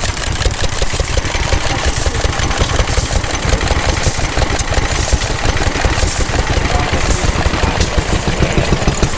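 Vintage stationary engine running steadily with a fast, even exhaust beat and a mechanical clatter over it.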